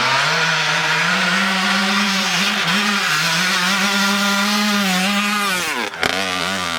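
Dirt bike engine held at high, fairly steady revs with small wavers in pitch, then the revs drop away sharply about six seconds in.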